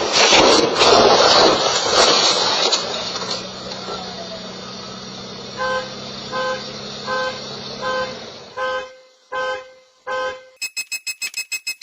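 A loud rush of noise at first, settling into a car engine's steady hum, then a car horn sounding in about seven even short beeps, three quarters of a second apart. Near the end a fast, even electronic beeping starts.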